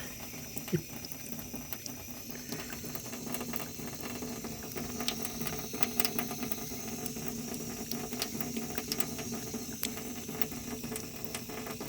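Tap running in a thin steady stream into a sink, with many quick little splashes and clicks as a cat laps water from the stream. A faint steady hum runs underneath.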